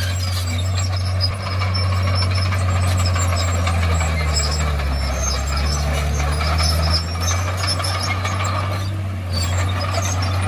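Crawler bulldozer's diesel engine running steadily under load, its note deepening for a few seconds midway, with high metallic squeaks over it.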